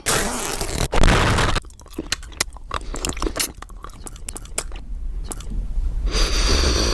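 Crunching, crackling noise: a loud hiss at first, then a dense run of sharp crackles and clicks, swelling into hiss again near the end.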